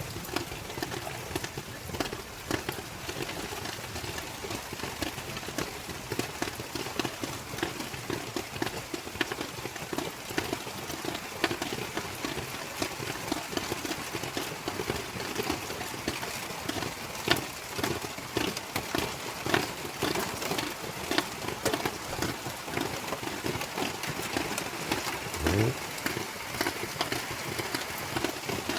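Steady rain falling, with a dense, irregular patter of drops striking hard surfaces. A brief rising low tone sounds near the end.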